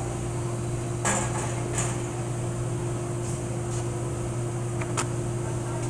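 A few soft knocks from a rubber mallet tapping the 4L60E transmission's output shaft out: one about a second in, another shortly after, and a few lighter ones up to near the end, over a steady low hum.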